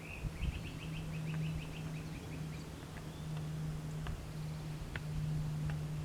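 A bird calling: a quick run of short high notes, about eight a second, that fades out over the first two and a half seconds, followed by a few single chirps. A steady low hum and a low rumble run underneath.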